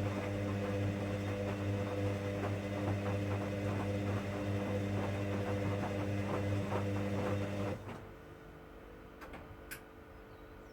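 The electric motor of a 1959 Hoover washing machine runs with a steady mains-pitched hum over a busy, irregular ticking and splashing. It shuts off abruptly about eight seconds in, and two short clicks follow about a second and a half later.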